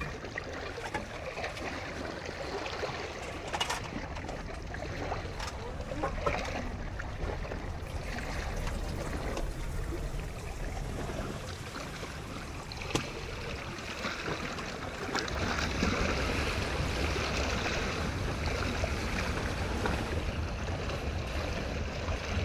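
Sea water sloshing and lapping around a small boat, with a few scattered knocks and clicks. About two-thirds of the way through, a low rumble and the water noise get louder.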